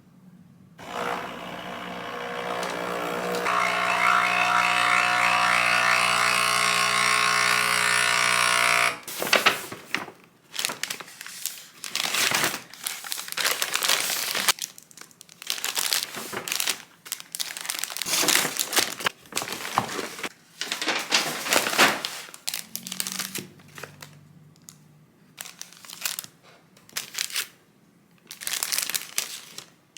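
A steady electric hum holds for several seconds and cuts off about nine seconds in, followed by repeated crinkling, rustling and tearing of handled packaging.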